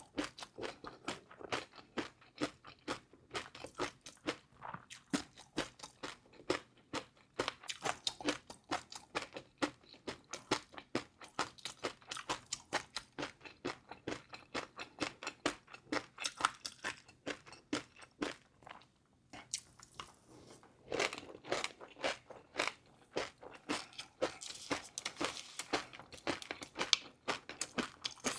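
Close-miked chewing of crunchy food in a mukbang, rapid crisp crunches several times a second, with a brief pause a little past the middle.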